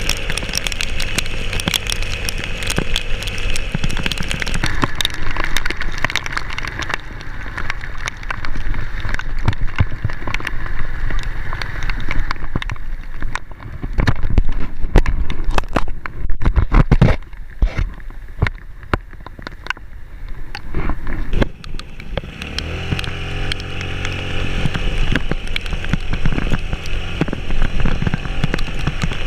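A vehicle engine running and revving while driving up a rough mountain track, with a long stretch of repeated knocks and rattling in the middle.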